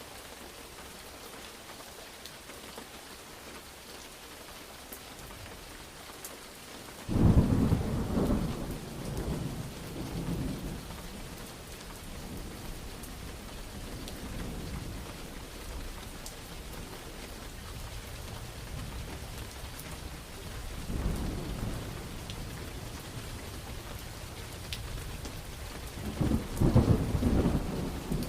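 Steady rain with thunder: a sudden loud clap about a quarter of the way in that rumbles away over several seconds, a weaker rumble past the middle, and another loud burst of thunder near the end.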